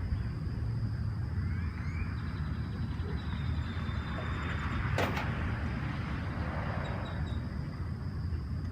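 Steady low rumble with a faint high steady tone, a few faint chirps early on, and one sharp click about five seconds in.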